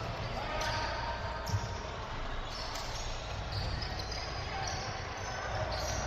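Basketball game sounds: a ball bouncing on the court floor, with short high squeaks scattered throughout, typical of sneakers on a gym floor, and voices in the background; one bounce about a second and a half in stands out as the loudest.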